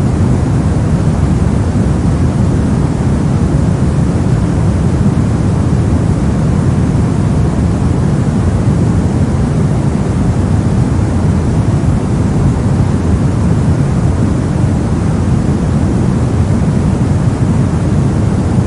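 Steady soft noise for sleep or study: an even, unbroken hiss weighted toward the low end, heard as a deep rumble with little treble.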